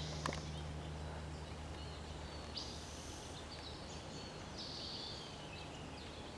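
Quiet open-air ambience with faint, brief high bird chirps and trills, two of them a little more distinct near the middle. A low steady hum stops a little before halfway.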